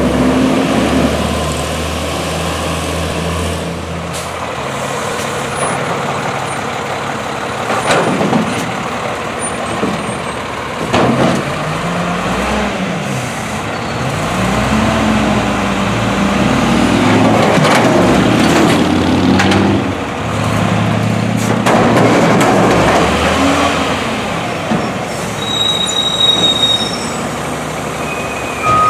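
Diesel engine of a Volvo WXLL front-loader garbage truck revving up and down several times, its pitch rising and falling in repeated swells. A few sharp hiss-like bursts cut in along the way.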